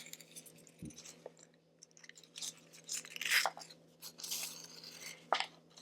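A large leaf crinkling and rustling as a twig needle threaded with yarn is pushed and pulled through holes punched in it, in several short, soft bursts.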